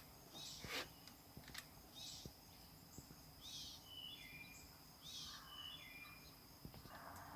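A small bird chirping faintly: a few short, high calls scattered through, with a couple of brief whistled notes about halfway.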